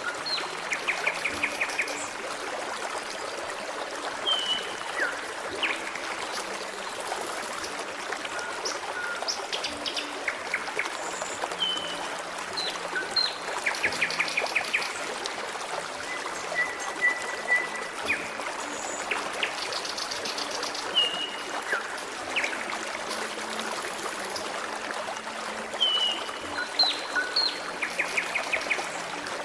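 Forest stream trickling steadily, with songbirds calling over it: several quick trills, short chirps and one held whistled note.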